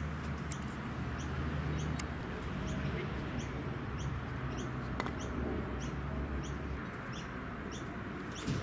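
A bird calling outdoors: short, high chirps repeated about twice a second, evenly spaced. Two sharp clicks come through about two and five seconds in.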